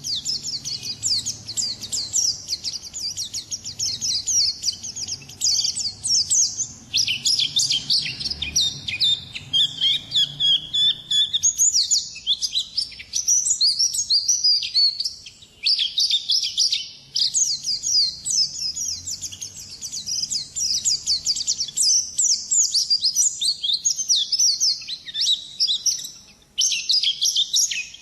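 Pleci (white-eye, Zosterops) singing a fast, continuous, high twittering song in the long ngalas style, breaking off only briefly about halfway through and again near the end.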